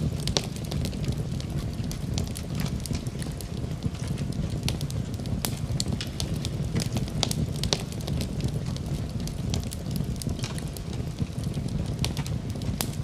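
Fire burning in a fireplace: frequent sharp crackles and pops, irregularly spaced, over a steady low rumble of flame.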